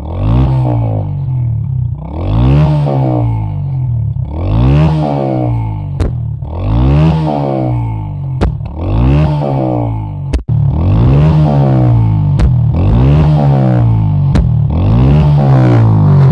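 Kuba XCG motorcycle engine revved up and let back down over and over, about every two seconds, with occasional sharp exhaust pops.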